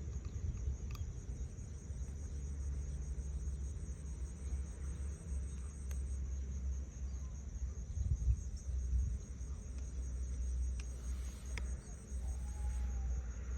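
A steady chorus of crickets or similar insects, a high shrill trill, over a continuous low rumble.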